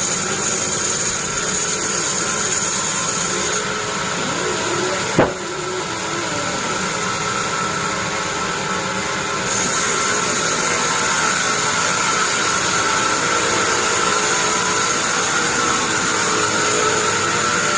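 Sawmill bandsaw machine running steadily with a held whine and a high hiss. The hiss drops away for several seconds and then comes back. A single sharp knock sounds about five seconds in.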